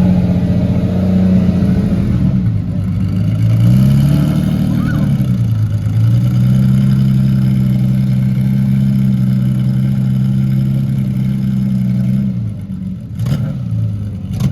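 A car engine running at low revs. Its pitch dips, rises again, then holds steady for several seconds before the engine note falls away near the end. A single sharp click comes shortly before the end.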